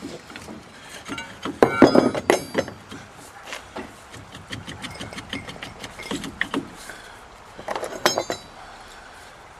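Metal tools and axle parts clinking and knocking against each other, with a cluster of ringing clanks about two seconds in and another near the end.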